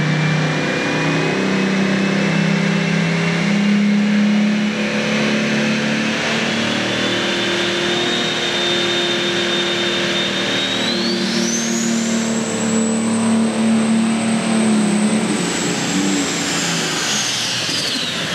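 Pro stock pulling tractor's turbocharged diesel engine running hard under load through a pull. Its high turbo whistle climbs steadily, jumps sharply higher about two-thirds of the way through, holds, and starts falling away near the end as the engine comes off.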